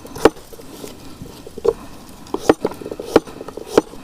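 Knife cutting pumpkin into bite-sized pieces, about five sharp, uneven chops on a cutting board.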